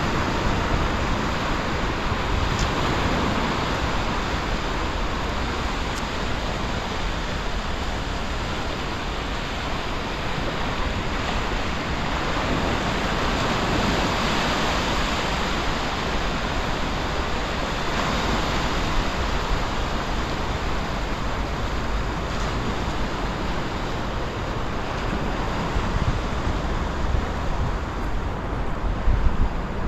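Sea surf washing and breaking steadily against a breakwater, in slow swells, with wind buffeting the microphone in low rumbles that get stronger near the end.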